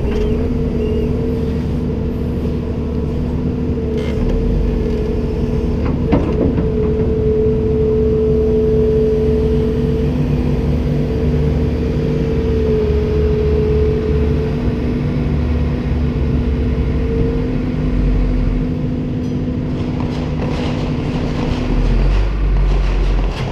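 Komatsu PC290-10 excavator's six-cylinder diesel engine and hydraulics running steadily, with a steady hum over a low rumble. There is a single knock about six seconds in, and the hum shifts and drops away near the end.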